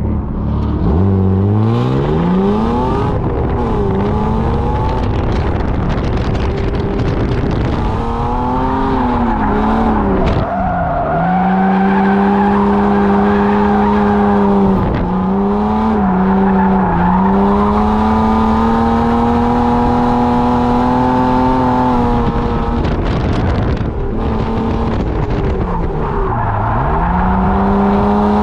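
BMW E36 drift car's engine at hard revs on track, climbing quickly at the start, swinging up and down, then held high and steady for about ten seconds with a few brief dips. Near the end the revs drop away and climb again. Tyres skid and squeal under it through the drifts.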